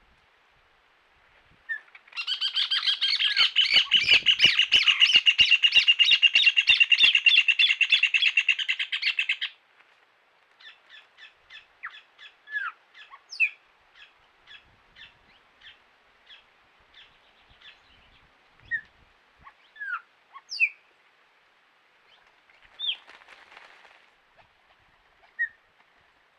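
Wild birds calling: one bird gives a loud, rapid rattling run of notes lasting about seven seconds, then a slower series of quieter short calls follows, with a few single chirps from other birds.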